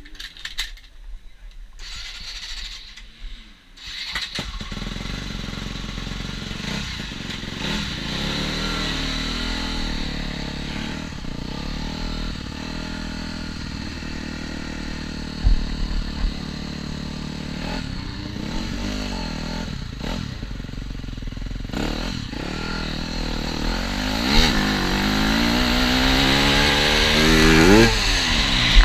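TM Racing 250 FI motocross bike engine, coming in loud about four seconds in and running steadily, then revving up repeatedly in rising pitches near the end. A short sharp knock is heard about halfway through.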